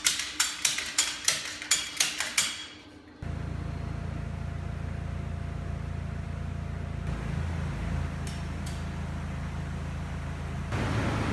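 Turbocharged Subaru EJ257 flat-four lifting off at the end of a dyno pull: the exhaust pops and crackles about eight times over two and a half seconds, fading. This is followed by a steady low running noise.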